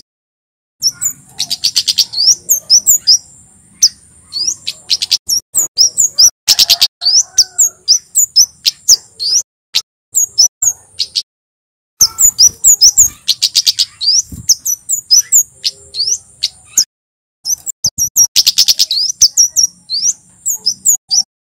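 Male kemade, a Javan flowerpecker, singing in a dense run of rapid, sharp, high chips and ticks, with stretches of a continuous high, thin trill, broken by short pauses twice.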